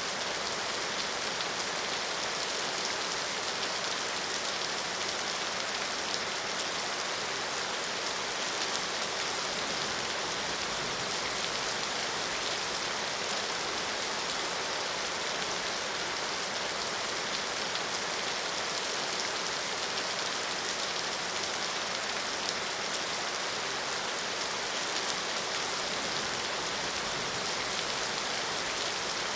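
Steady rain falling, an even hiss with fine patter of drops hitting a surface.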